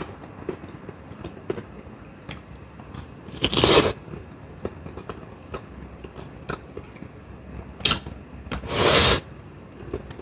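Close-miked chewing of steamed vegetables and fish, with small fork clicks against a plate throughout and two louder half-second noises about three and a half and eight and a half seconds in.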